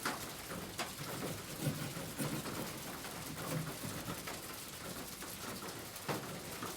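Steady rain-like hiss with scattered drop-like ticks, and a dove or pigeon cooing low between about one and a half and four seconds in.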